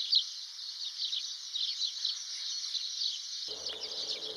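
Many short, high bird chirps repeating rapidly over a steady high insect trill. A low hum comes in about three and a half seconds in.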